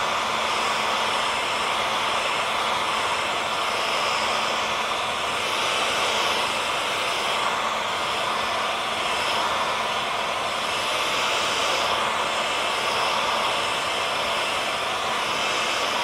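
Hair dryer running continuously: a steady airy rush of blown air with a faint steady motor hum under it, swelling only slightly now and then.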